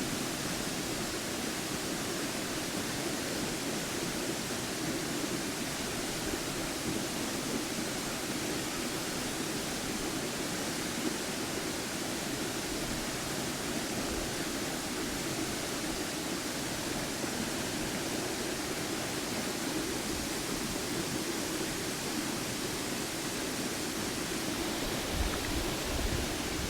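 Steady rushing of a waterfall, a loud, unbroken roar of falling water.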